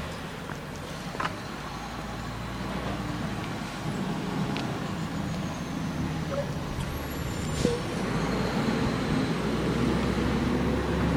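Garbage truck's diesel engine running steadily, with a few sharp clanks, and getting louder in the last few seconds.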